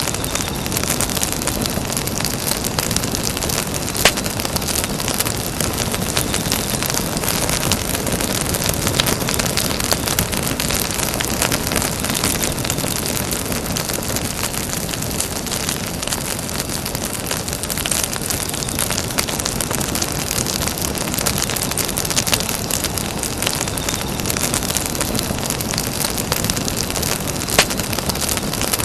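Bonfire burning: a steady hiss of flames with frequent small crackles, and a sharper pop about four seconds in and another near the end.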